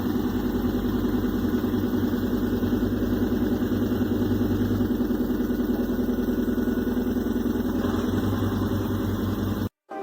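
A motor or engine running steadily with a fast, even throb, cut off abruptly near the end.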